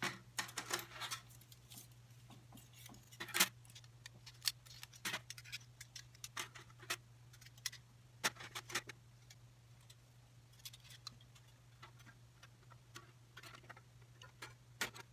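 Stainless steel plates of a SOTO Mini Hexa fire stand clicking and clinking as they are handled and slotted together during assembly. The clicks are irregular, the loudest about three seconds in, over a steady low hum.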